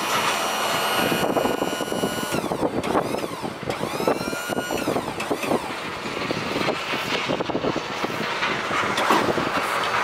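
A 2008 Ford Super Duty rack truck with a 6.8-litre V10 being driven: engine and road noise with frequent knocks and rattles. A whine rises and falls from about two to five seconds in.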